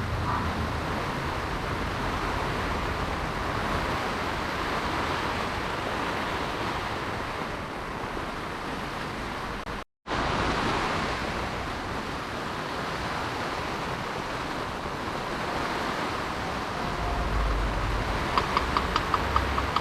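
Heavy rain falling, a steady hiss that drops out for an instant about halfway through. Near the end comes a quick run of sharp ticks over the rain.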